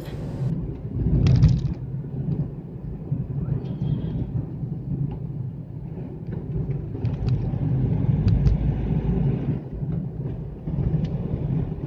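Steady low rumble of a Hyundai Xcent's engine and tyres on the road, heard from inside the moving car. A few short, sharp sounds rise above it, the loudest about a second in.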